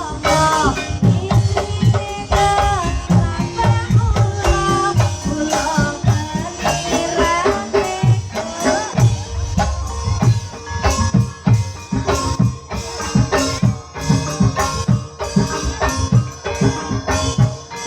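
Live gamelan music accompanying an ebeg (kuda kepang) horse dance: drums beat a quick, dense rhythm under ringing pitched metal tones.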